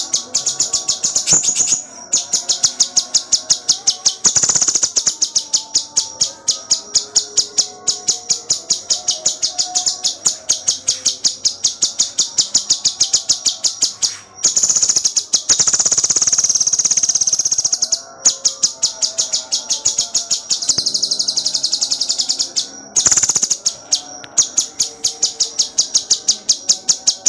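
Cucak cungkok songbird singing full gacor: rapid, tightly packed high chirps several a second, broken by a few short pauses. About halfway through comes a longer unbroken trill.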